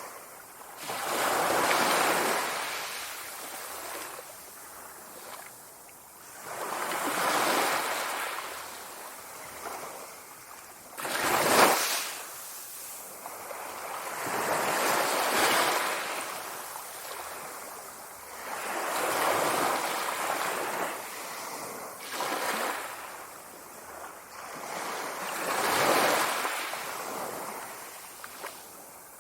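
Sea waves washing in, swelling and falling away every four to six seconds, with one sharper, louder crash about eleven seconds in.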